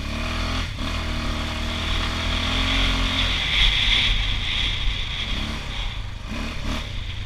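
Honda TRX680 ATV's single-cylinder engine running, its pitch shifting slightly, with a hiss that grows loudest about halfway through.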